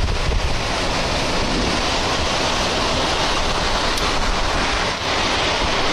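Strong wind buffeting the microphone: a loud, steady rushing roar of a storm.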